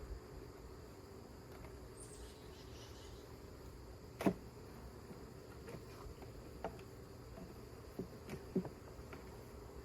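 Honeybees humming steadily around an open hive, with a few sharp knocks as wooden hive frames are handled, the loudest about four seconds in and several smaller ones near the end.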